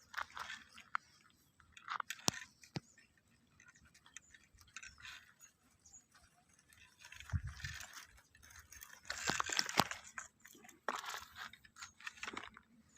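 Irregular crunching and rustling with scattered clicks, louder about two thirds of the way through.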